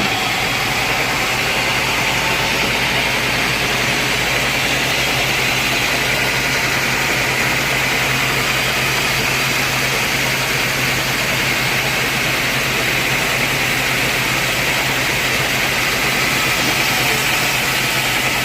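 Sawmill machinery running steadily: a constant low hum with a steady high whine over it, unchanging throughout.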